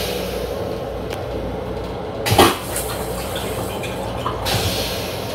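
Steady rumble of an M7 commuter railcar running, heard from inside its restroom, with one short, loud sound about two and a half seconds in and a softer one near the end.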